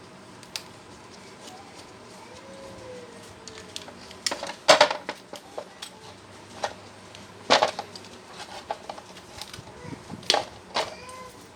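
Metal parts and hand tools clinking and knocking on a workbench while a broken electric jackhammer is taken apart: scattered light clicks with a few sharper knocks a couple of seconds apart.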